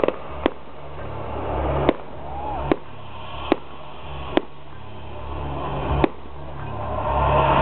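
Aerial fireworks shells bursting: a series of single sharp bangs, about seven, spaced roughly a second apart, over a low steady rumble.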